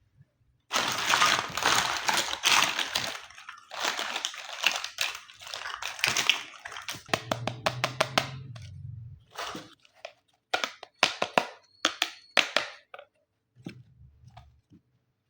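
Plastic packaging crinkling and rustling as it is handled, then a string of sharp clicks and taps from small plastic toy pieces.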